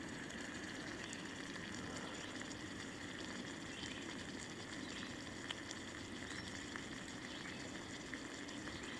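Steak, zucchini and onions frying in olive oil in a crowded pan: a steady sizzle with faint crackles now and then.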